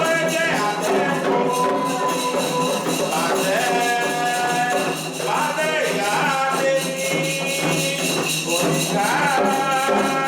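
Candomblé chant for Xangô: singing with gliding, held notes over a steady rhythm of hand percussion and rattles.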